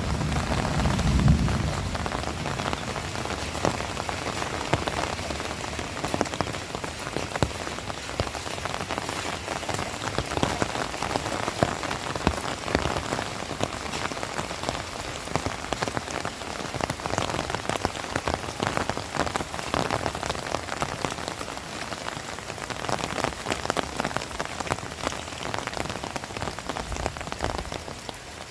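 Heavy rain falling steadily, a dense hiss of countless drops striking surfaces. A low rumble fades out in the first second or two.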